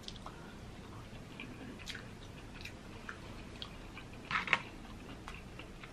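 A person chewing crab claw meat close to the microphone, with soft wet mouth clicks scattered throughout. There is a louder burst of chewing about four and a half seconds in.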